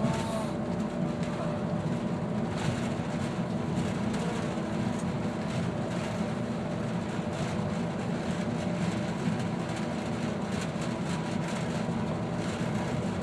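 Airport people-mover tram running along its guideway, heard from inside the car: a steady rolling rumble with a faint steady whine over it.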